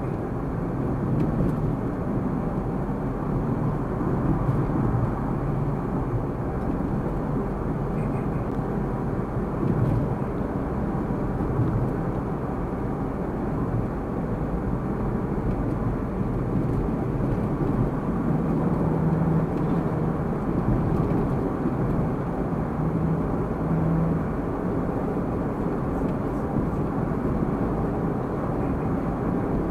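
A car driving, its engine and road noise heard as a steady rumble through a dashcam microphone.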